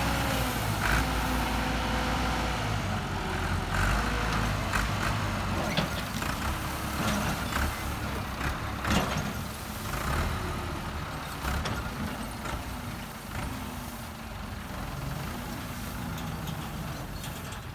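Massey Ferguson tractor's diesel engine running under load, its pitch sagging and picking up again, with scattered knocks and clatter.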